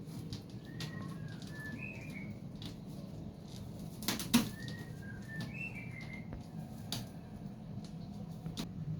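Small birds chirping in short repeated phrases, with scattered sharp knocks or clatters, the loudest a double knock about four seconds in, over a steady low hum.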